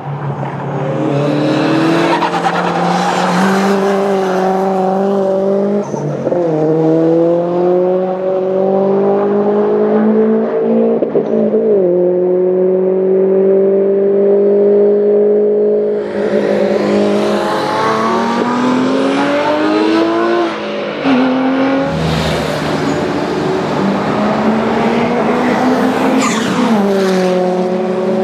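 Subaru Impreza WRX STI's turbocharged flat-four engine pulling hard under acceleration. Its note climbs steadily in long pulls and drops sharply at each of several gear changes.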